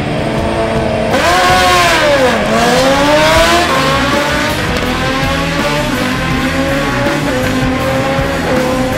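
Drag-racing motorcycle engine revving hard. About a second in, a sudden rush of tyre hiss starts and the pitch rises and falls. From about two and a half seconds the pitch climbs steadily and then holds.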